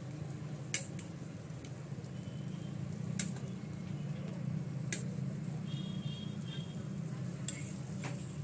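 Egg-dipped bread slices frying in butter on a hot tawa: a soft sizzle over a low steady hum. A few sharp clicks ring out as egg batter is spooned over the slices.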